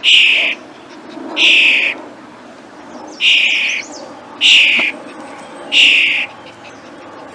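A bird giving loud, harsh, hissing screeches over and over, five in all, each about half a second long and coming roughly every second and a half.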